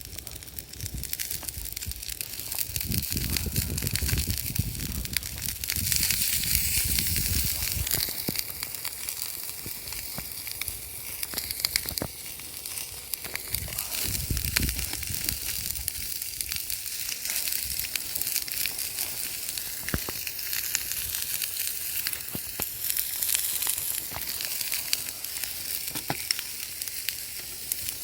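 Food sizzling as it fries in a pan over a campfire, a steady hiss dotted with sharp crackles.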